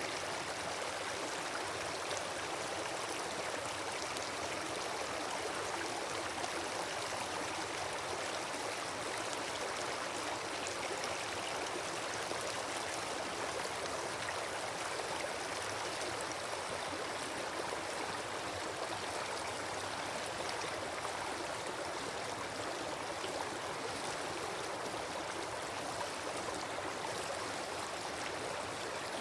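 Wood campfire burning with open flames: a steady hiss and rush of fire, flecked with small crackles.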